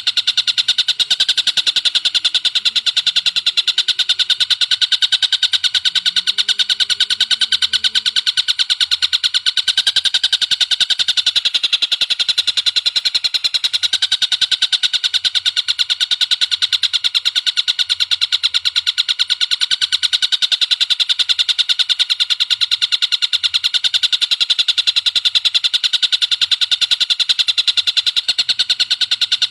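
Bird calling in a fast, unbroken rattle of high-pitched chips, many a second and steady throughout.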